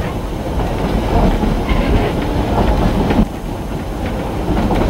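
Narrow-gauge passenger train rolling along the track: a steady rumble of wheels and cars with scattered clacks.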